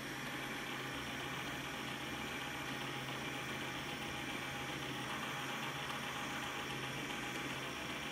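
Xiaomi Mi Robot Vacuum running steadily: a constant motor hum under an even suction hiss.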